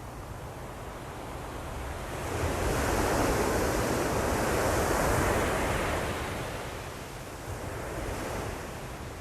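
Ocean surf: a wave breaks and washes up the shore, its rushing noise swelling about two seconds in and ebbing away over several seconds, with a smaller surge near the end.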